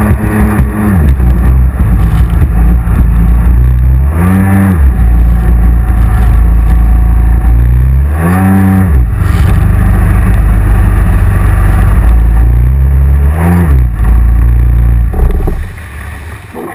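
Racing jet ski engine running at high revs. Its pitch dips and swings back up about four times as the throttle is eased and reopened, then the sound fades away near the end.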